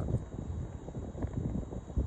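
Wind buffeting the microphone, an uneven, gusty rumble.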